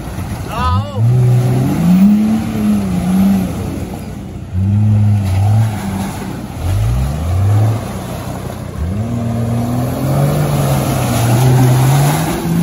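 Off-road 4x4's engine revving hard in repeated bursts, pitch climbing and dropping again and again, as it drives its wheels through deep mud.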